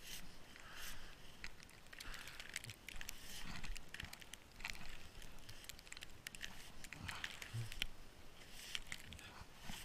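Snow crunching and crackling in short, irregular bursts.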